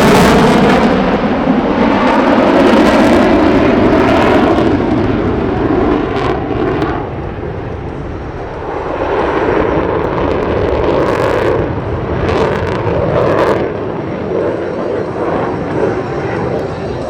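Airplane flying past at an airshow: a loud, dense rush of engine noise that is strongest at the start and fades, then swells again about ten seconds in before falling away.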